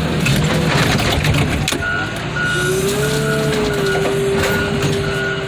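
Heavy equipment engine running under load with a sustained whine. A backup alarm beeps about twice a second from about two seconds in. There is a single knock just before the beeping starts.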